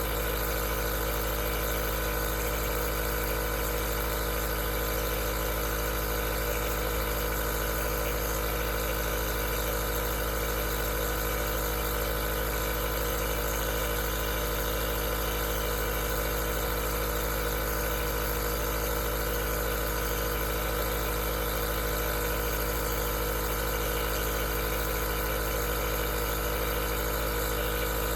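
Aerosol nebulizer's compressor running steadily: a constant motor hum with a hiss of air over it.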